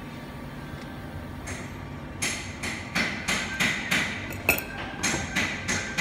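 Sharp, evenly spaced knocks, about three a second, starting about two seconds in after a quiet start.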